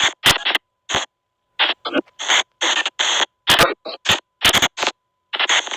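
SP White Noise Box spirit-box app sweeping: short chopped bursts of hissing static and garbled fragments, a few per second, cut off abruptly by silent gaps, with a faint steady tone under the gaps.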